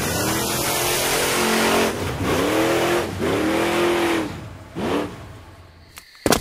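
Vehicle engine sound effect accelerating hard: the engine note climbs and drops several times as it shifts up through the gears, then fades into the distance. A sharp knock comes near the end.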